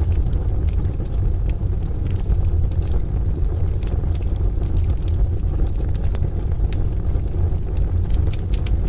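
A crackling wood fire in a stove, with scattered sharp pops and snaps over a steady deep rumble.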